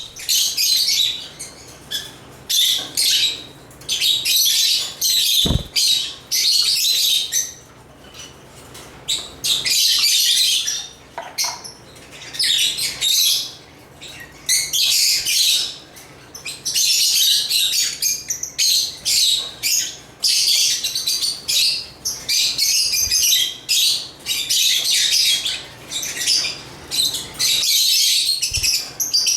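African lovebirds (Agapornis) chirping and chattering in rapid, shrill bursts with short gaps between them. Two dull low thumps come through, one early and one near the end.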